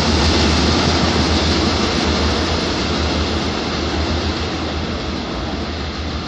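Freight train of big hopper wagons rolling away along the track, a steady noise of wheels on rail slowly fading as it recedes.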